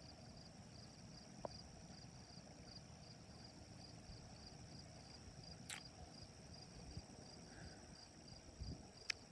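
Crickets chirping faintly in a steady, even pulse, with a couple of faint clicks about halfway through and near the end.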